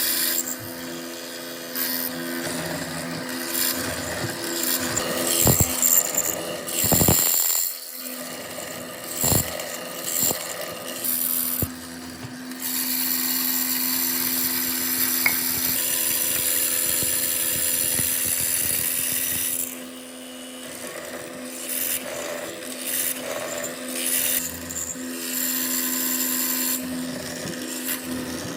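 A power tool working wood: a motor hums steadily with a grinding, rasping noise as it cuts or sands. A few sharp knocks sound in the first half, and a long, louder, steady stretch of cutting runs through the middle.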